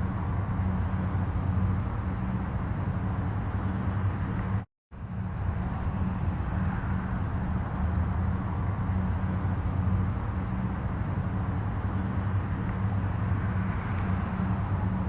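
Distant highway traffic: a steady low rumble and tyre hiss of many vehicles blending together. The sound cuts out completely for a split second about five seconds in, then carries on unchanged.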